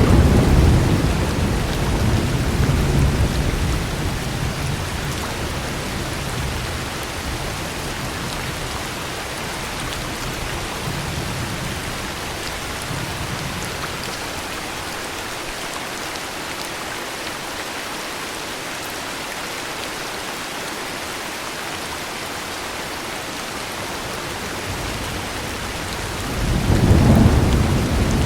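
Heavy rain falling steadily, with rolls of thunder: a low rumble at the start that dies away over the first few seconds, and another that swells up near the end.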